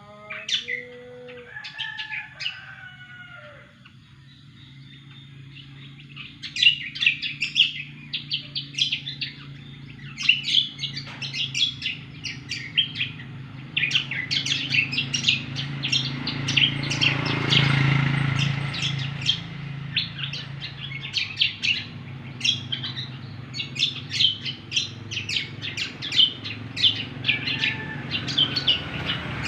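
Cucak kombo songbird singing in a rapid, continuous stream of high chirps and trills. A few lower gliding whistles come at the start, and a low hum swells and fades about halfway through.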